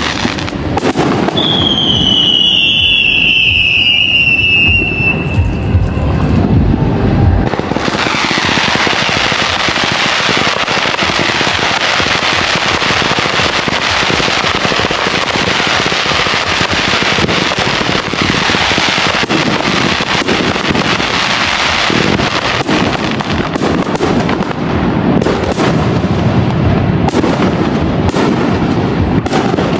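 Fireworks display: deep booming bursts and a whistling shell falling in pitch, then from about eight seconds in a dense crackle of crackling stars, with sharp bangs again near the end.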